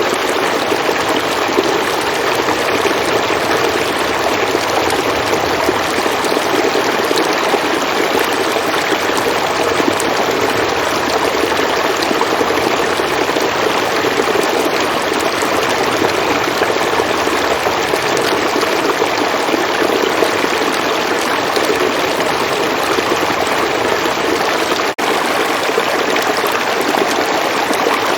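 River water flowing in a steady, continuous rush, with one momentary dropout near the end.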